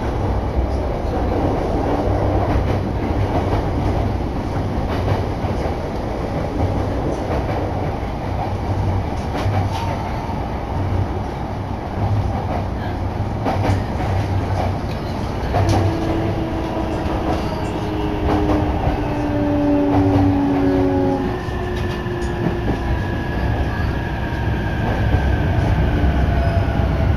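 Inside a Shonan-Shinjuku Line electric commuter train running: a steady low rumble with occasional clicks over rail joints and points. From about halfway through, the electric motors whine in several tones that fall in pitch as the train brakes to a stop at the station.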